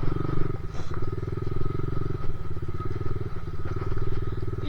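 Two-stroke dirt bike engine running at low speed along a trail, the throttle easing off briefly a few times.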